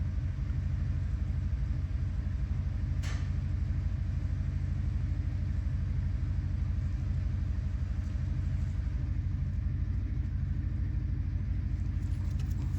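A motor vehicle's engine idling, a steady low rumble with a fast even pulse. A single sharp click about three seconds in.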